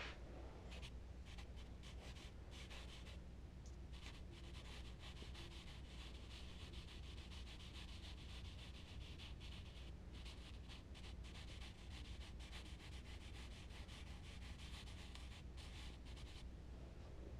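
Charcoal rubbing on smooth Bristol paper: faint, fast, scratchy short strokes, with a brief break about three and a half seconds in. A steady low hum runs underneath.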